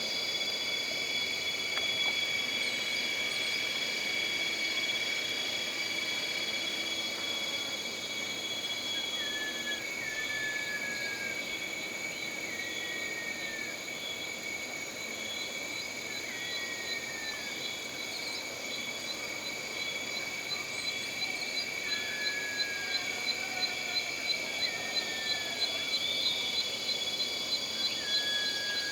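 Jungle ambience: a steady, layered high-pitched insect drone. Repeated short falling whistled calls come every couple of seconds from about a third of the way in. Near the end a fast pulsing chirp of about two beats a second joins in.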